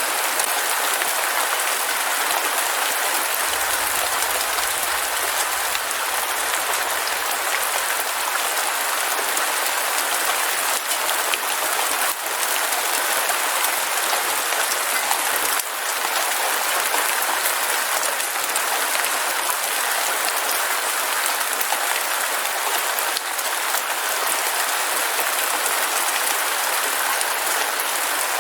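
Heavy rain falling steadily, a dense even hiss of drops with fine crackle and no thunder.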